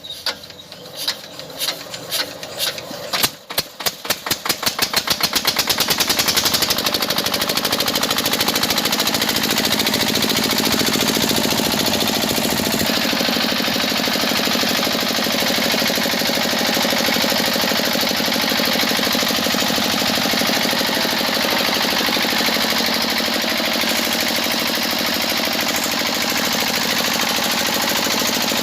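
A small engine starting: separate firing pops come faster and faster over the first six seconds, then merge into a steady, fast-running buzz that holds to the end.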